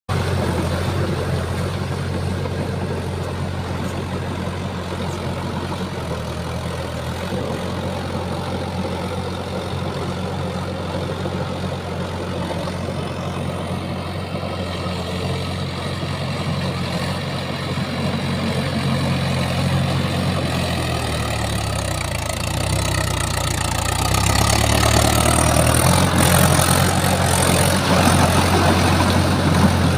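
Tractor's diesel engine running steadily at low revs. About twenty seconds in, its note shifts and it grows louder, as though put under load.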